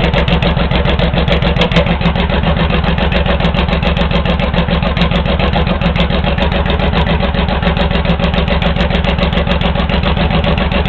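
Honda VTX1800 V-twin idling steadily through 3-inch Hard Krome straight pipes, an even rhythmic loping beat, with the pair valve blocked off.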